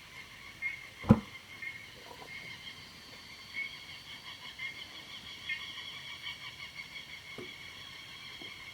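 Steady high-pitched chorus of small animals calling without a break, with one sharp knock about a second in.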